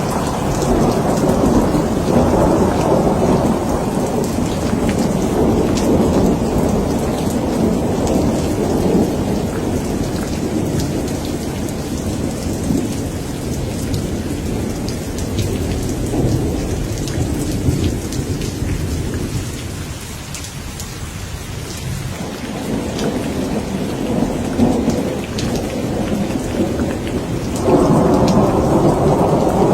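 Thunderstorm: steady rain falling with continuous rolling thunder. The rumble eases about two-thirds of the way through and swells up again near the end.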